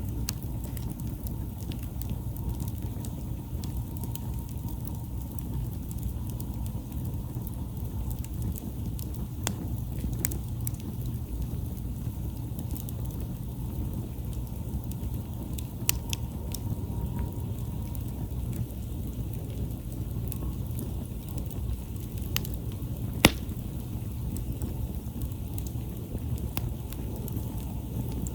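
Wood campfire burning, with sharp crackles and pops scattered through it over a steady low rumble; the loudest pop comes about three quarters of the way through.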